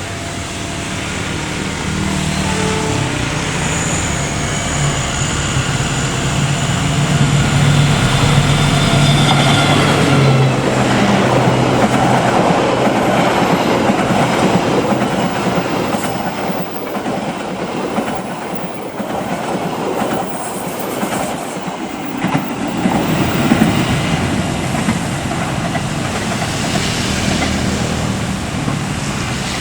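A train passing close by. A steady low hum of the locomotive comes first, then the carriages rumble and clatter past on the rails for the rest of the time.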